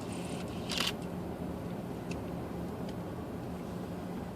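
Steady low hum of a vehicle heard from inside, with a short rustling click of the camera being handled about a second in.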